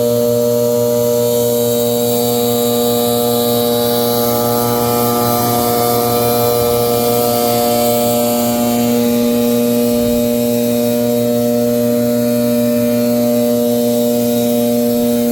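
Leaf blower running at a steady, high throttle with an unchanging engine tone and a rush of air.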